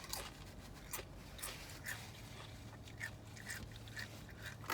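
Soft chewing and mouth sounds of someone eating, with scattered small clicks and smacks.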